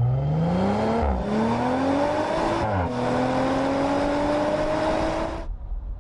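Audi RS 5 Coupé engine accelerating hard through the gears: the engine note climbs, drops sharply at two quick upshifts about one and three seconds in, climbs again, then cuts off sharply near the end.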